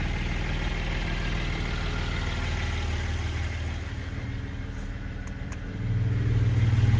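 Porsche 718 Boxster Spyder's naturally aspirated 4.0-litre flat-six idling steadily, with two faint clicks, then the exhaust drone grows louder and deeper about six seconds in.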